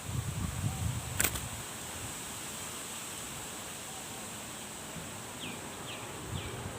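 Outdoor rural ambience: a steady insect-like hiss with a constant high tone, and a low rumble at first. A sharp click comes about a second in, and three short falling chirps from a small bird come near the end.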